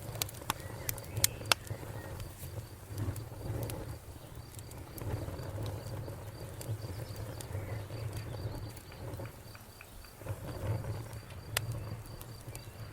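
Wood fire crackling: sharp pops and snaps of burning wood, several in quick succession about a second in and one more near the end, over a steady low rumble of the flames.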